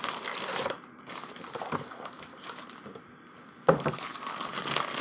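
Paper and packaging crinkling as the contents of a small boxed paper toy stamp are pulled out and handled. It rustles busily at first, goes quieter in the middle, then there is a sudden loud rustle near the end, followed by more crinkling.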